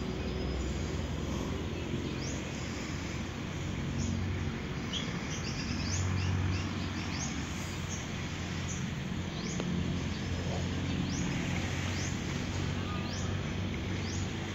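Birds chirping, a dozen or so short rising chirps scattered through, over a steady low hum and hiss.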